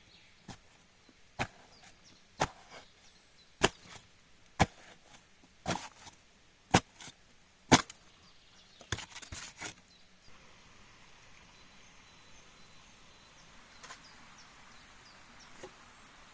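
Wood being chopped: about a dozen sharp chopping strikes, roughly one a second, some followed by a smaller knock. They stop about ten seconds in, and a quieter steady noise takes over.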